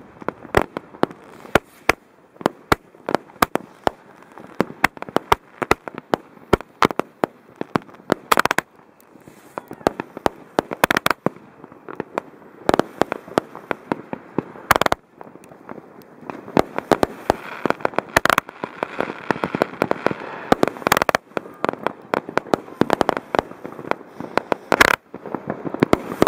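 Linked firework batteries firing at close range: a rapid, irregular string of launch thumps and bangs with crackling, broken by several much louder bangs every few seconds. A thicker spell of crackling comes about two-thirds of the way through.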